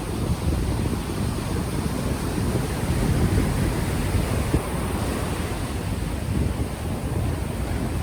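Ocean waves washing onto the shore, mixed with low rumbling wind buffeting an unshielded microphone.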